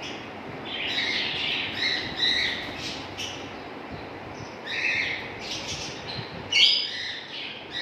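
Pet bird calling: short, high calls in two spells, the first about a second in and the second about five seconds in, loudest near the end.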